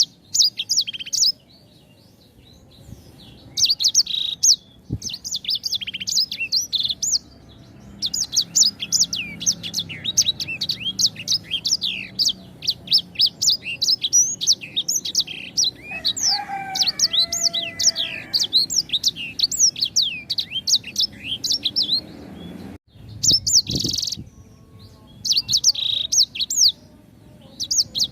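Sanger (Edelsänger finch) singing: long phrases of rapid, high, quick downslurred chirping notes, broken by short pauses.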